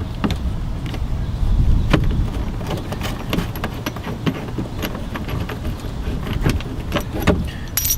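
Irregular metallic clicks and rattles of hand tools and small fasteners being worked on the mudflap hardware, over a steady low rumble.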